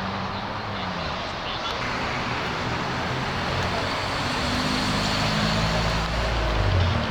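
Modified cars' engines and exhausts running in a parking area, one engine's pitch rising from about four seconds in. A deep exhaust rumble swells near the end.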